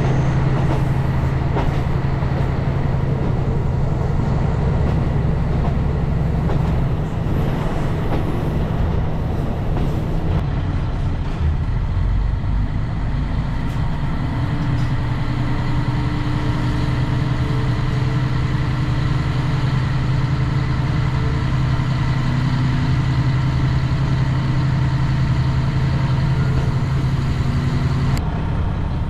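A vehicle running with a steady low engine drone and even running noise; the noise changes about ten seconds in and the sound cuts off shortly before the end.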